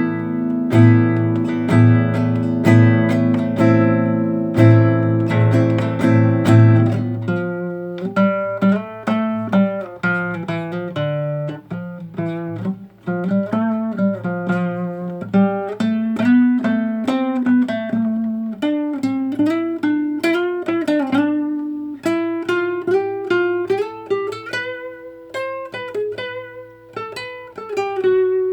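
Classical guitar playing: strummed chords ringing for about the first seven seconds, then single plucked notes picking out a melody over low bass notes.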